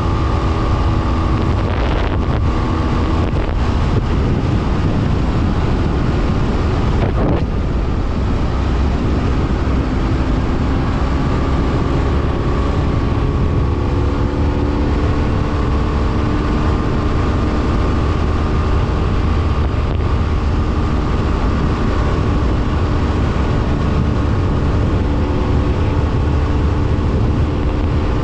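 BMW F800R motorcycle's parallel-twin engine running under way, with wind rushing over the camera microphone. The engine note breaks briefly about two seconds in and again about seven seconds in, then its pitch climbs slowly.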